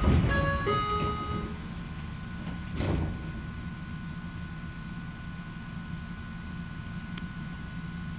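Inside an Ohmi Railway train: a short electronic chime of a few notes at the start, then the steady low rumble of the railcar with a faint steady whine. A brief whoosh comes about three seconds in.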